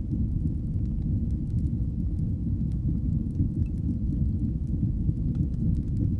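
Wood fire burning in a fireplace: a steady low roar with faint, scattered crackles and pops throughout.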